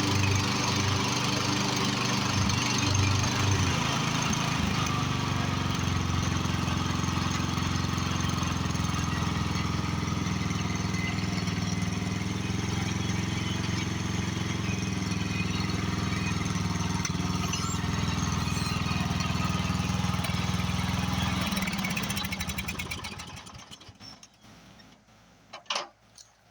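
Briggs & Stratton 13.5 hp overhead-valve riding-mower engine running, fitted with a carburetor that is not the right one for it and will not let it idle down. Its note pulses unevenly for the first few seconds, then runs steady. Near the end it is shut off and winds down, followed by a single sharp knock.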